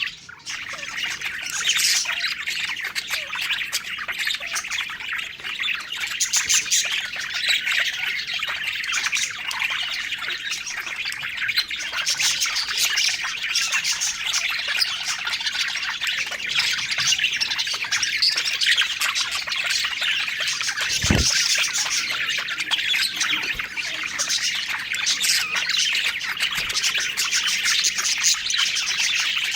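A group of budgerigars chattering, warbling and chirping together in a continuous busy stream, with a brief drop in the chatter right at the start.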